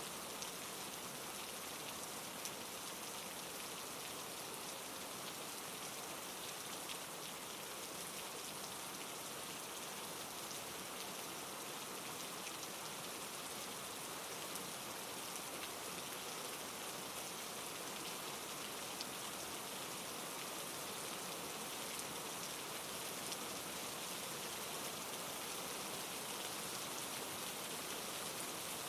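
Steady rain falling: an even hiss with scattered drop ticks now and then, and no thunder.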